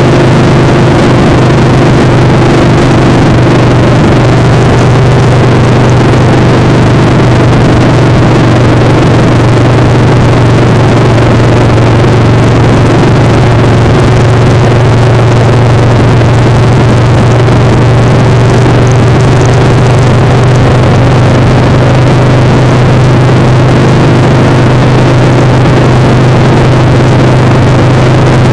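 Motorcycle engine running at a steady cruising speed, its pitch holding level, under heavy wind noise rushing over the microphone.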